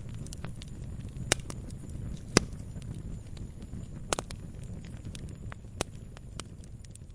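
Campfire burning with a low rumble of flames and irregular sharp crackles and pops from the burning wood. The loudest snaps come about a second and two seconds in, with a quick double snap around four seconds.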